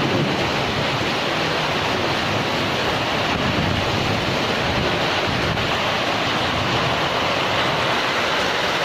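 Heavy rain pouring down in a thunderstorm, a steady dense hiss with no break.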